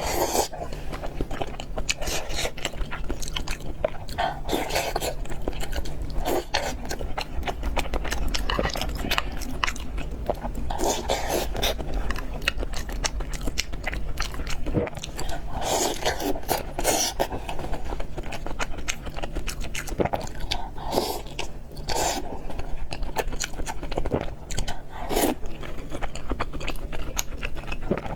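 Close-miked mouth sounds of eating fried noodles and pork: continuous chewing and biting with many quick, irregular wet clicks and smacks.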